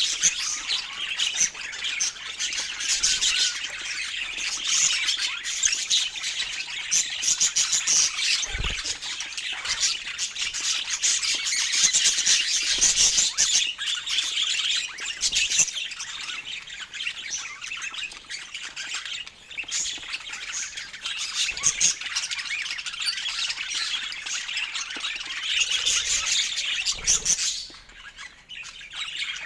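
Budgerigars chirping and chattering continuously, a dense flock-like stream of rapid high-pitched calls, easing briefly near the end.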